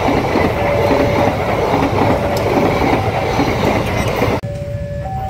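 Passenger train coaches passing close by at high speed: a loud, dense rush and clatter of wheels on rail that cuts off abruptly about four seconds in. A simple electronic tune of alternating tones carries on over quieter street noise after the cut.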